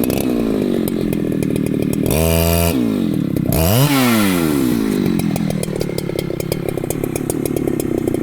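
Husqvarna chainsaw engine revving: its pitch drops and climbs sharply twice, then it settles to a steady lower speed for the last few seconds.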